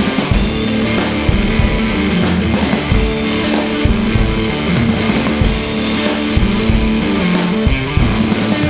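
Rock band playing an instrumental passage with no vocals: electric guitar over a drum kit keeping a steady beat.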